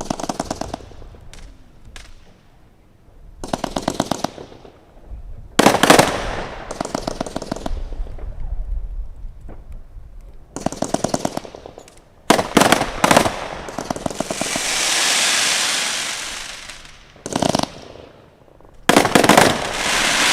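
Consumer firework cakes firing in salvos of rapid crackling reports, one burst of shots after another with short gaps between. About two thirds of the way through, a long hiss swells and fades.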